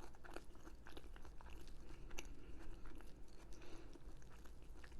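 Close-miked chewing: a person eating with their mouth, making many small wet clicks and soft crunches.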